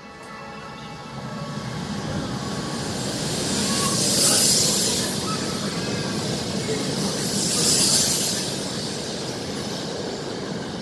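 E7 series Shinkansen passing through the station at speed: a rising rush of air and wheel noise, with two louder hissing surges about four and eight seconds in, easing off near the end.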